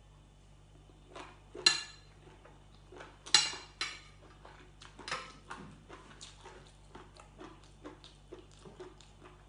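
Two sharp clinks of a metal spoon, about one and a half and three and a half seconds in, then close-up chewing of a mouthful of boiled pork ear and rice: a run of small crunchy clicks from the cartilage.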